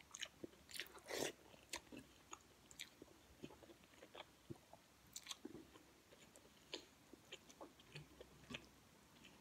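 Faint close-up chewing of a soft mouthful of rice and kare-kare, with scattered soft clicks and smacks of the mouth, irregularly about once or twice a second.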